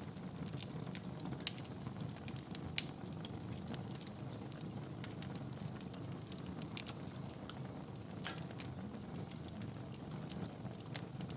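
Wood fire burning in a fireplace: a steady low rumble of the flames with irregular crackles and sharp pops from the burning logs, one louder pop about three seconds in.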